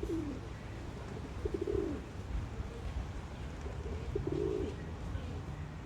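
A bird cooing: short, low calls that each open with a quick stutter and hold for about half a second, repeated three times a couple of seconds apart.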